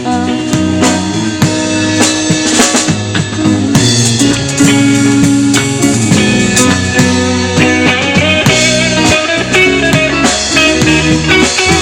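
Live band playing an instrumental passage between sung lines: guitar over a drum kit, with no singing.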